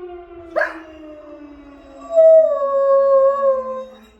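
Dog howling: one long howl beginning about two seconds in that slides gently down in pitch, with a short sharp yip about half a second in. A siren winds down underneath, its tone falling slowly throughout.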